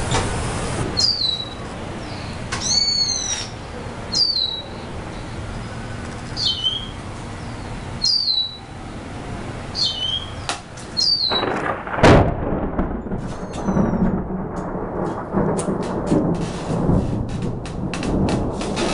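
Low thunder rumbling from a dry thunderstorm, with a bird giving a high, falling call about every second or two for the first ten seconds. About twelve seconds in there is a single sharp thunderclap, the loudest sound here, followed by heavier rumbling and a run of quick clicks.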